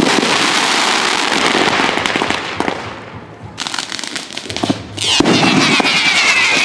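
Fireworks going off in a dense run of crackles and bangs that thins out and quietens about halfway through. A new loud volley starts near the end, carrying a falling whistle.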